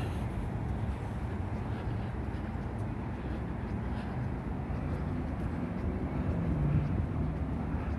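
Street traffic on a busy boulevard with a steady rumble, one vehicle's engine note rising out of it for a moment near the end, and wind on the microphone.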